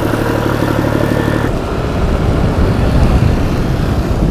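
A motor running steadily with a fast, even throb, cutting off about one and a half seconds in, followed by a low rumble.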